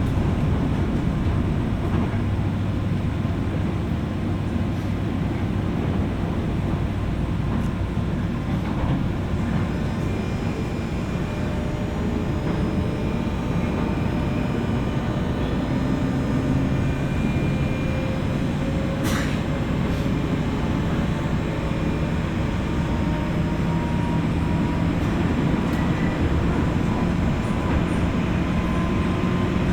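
JR West 201 series electric train heard from inside its motor car, above the armature-chopper control gear: steady running rumble of wheels on rail, with the traction motor and gear hum climbing slowly in pitch from about halfway through as the train gathers speed. A single sharp click sounds about two-thirds of the way in.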